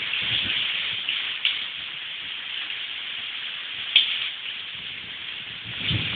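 Heavy rain falling steadily, with a few sharp taps among it, the loudest about four seconds in.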